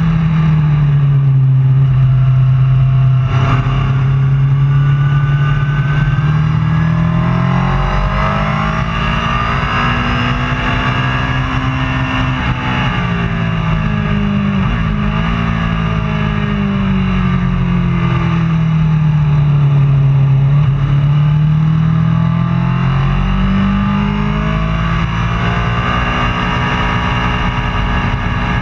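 Superbike engine running, its pitch rising and falling slowly and smoothly several times.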